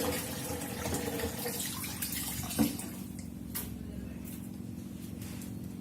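Kitchen tap water running into a sink, dying away about halfway through, followed by a few light knocks. A steady low hum runs underneath.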